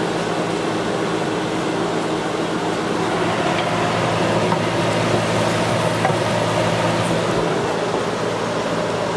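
A fan running steadily: a low, even hum with a rushing air noise over it, unchanging throughout.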